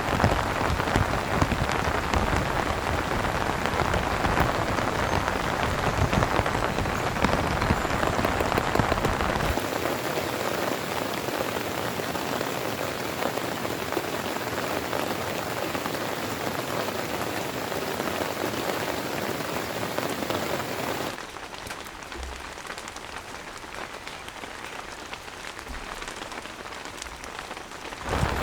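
Heavy rain falling on a tent awning, a dense steady patter of drops. The sound changes abruptly twice: about ten seconds in the deep rumble drops away, and around twenty seconds in the rain becomes quieter and duller.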